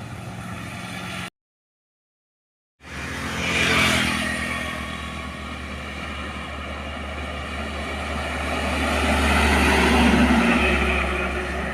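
Heavy trucks passing on a road, engine drone and tyre noise. About a second in, the sound cuts out completely for a second and a half. Then one vehicle swells and passes about four seconds in, and another builds and passes near ten seconds.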